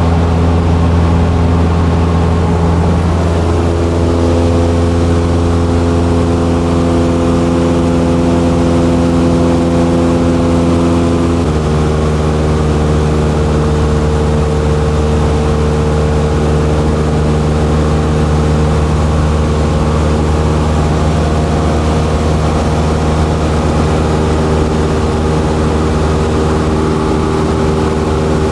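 Single-engine light airplane's piston engine and propeller running steadily. The engine note changes pitch about three seconds in and shifts again a little after eleven seconds, as the power setting changes.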